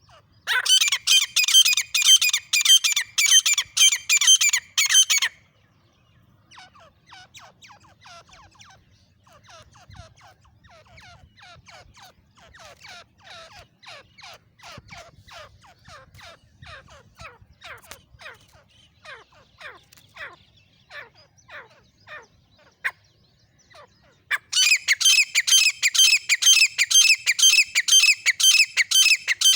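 Francolins (teetar) calling. A loud bout of rapid, harsh, repeated notes lasts about five seconds at the start, and another comes near the end, with a quieter run of repeated calls in between.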